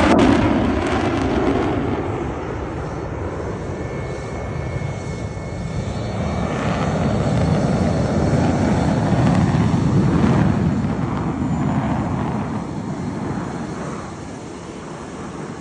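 Twin-engine Sukhoi fighter jets flying overhead in formation, a continuous jet roar. It is loudest at the start, swells again about two-thirds of the way through, then fades toward the end.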